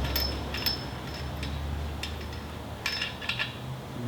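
Light metallic clinks and taps of tools and strut parts being handled, a handful of short ringing ticks scattered through, over a low steady hum.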